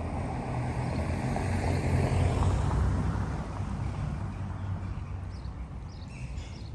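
A motor engine's low hum passing by, growing louder to a peak about two to three seconds in and then fading away.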